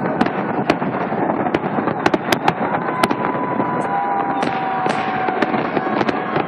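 Fireworks salute: a dense, continuous crackle of many sharp bangs and pops. A faint steady high tone runs underneath through the middle.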